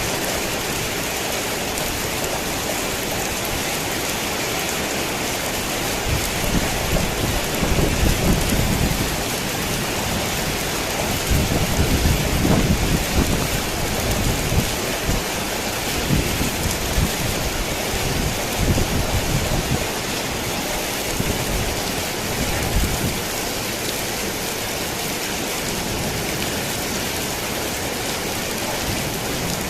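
Steady rain drumming on a tin roof, with rolling thunder rumbling low through the middle, swelling twice to its loudest before fading back under the rain.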